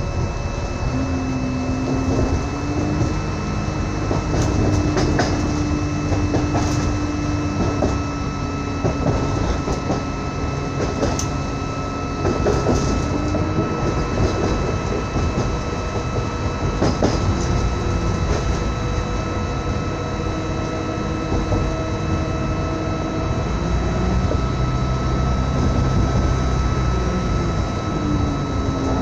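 Inside a moving passenger train: steady running rumble with scattered clicks of the wheels over the track, a low humming tone from the drive that rises and falls in pitch a few times, and thin steady whines above it.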